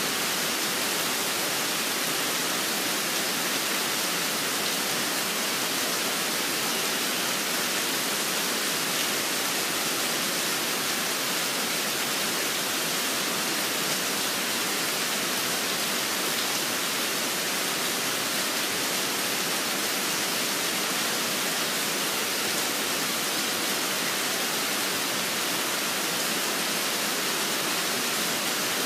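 Steady rain, an even hiss with no change in level.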